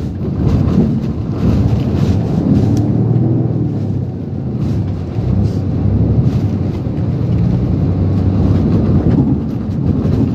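Typhoon wind and rain, a loud low rumble that swells and eases without a break.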